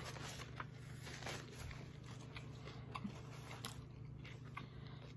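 Faint chewing of a mouthful of fish taco in a toasted corn shell, with scattered soft crunches and wet mouth clicks over a low steady hum.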